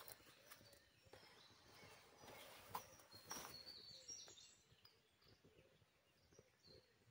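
Near silence: faint scattered clicks and a few short high chirps.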